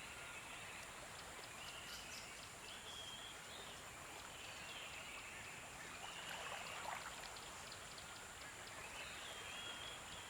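Faint nature-sounds ambience: steady running water with birds chirping now and then in short, high calls.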